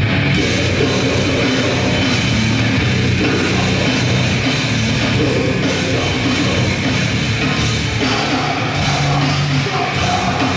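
Grindcore band playing live: loud, dense, continuous distorted band sound with a drum kit pounding underneath, with no break.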